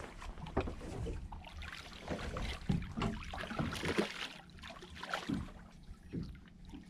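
Water lapping and splashing against the hull of a small boat, with scattered knocks and handling noises over a steady low rumble.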